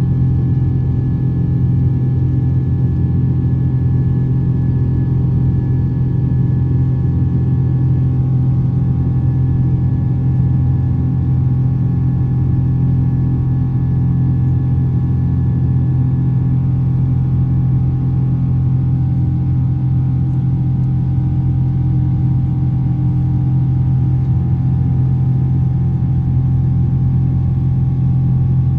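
Steady drone inside a Boeing 777's passenger cabin: a strong low hum with several steady higher tones over it, unchanging throughout.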